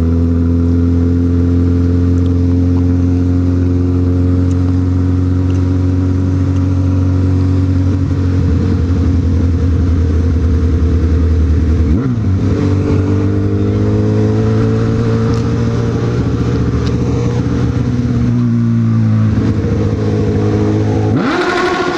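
Honda CB1000R's inline-four engine running at steady revs under way, its note stepping up about halfway through and dropping sharply near the end.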